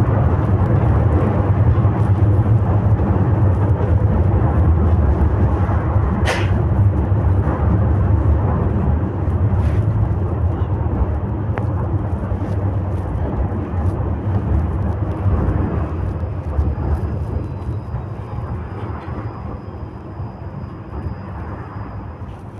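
Steady low rumble of a moving vehicle, with one sharp click about six seconds in; the rumble fades gradually over the last several seconds.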